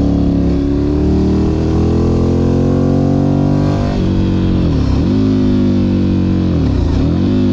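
Ducati Monster 1100 EVO's air-cooled L-twin engine pulling under load, its pitch rising steadily for about four seconds, then twice dipping briefly and climbing again.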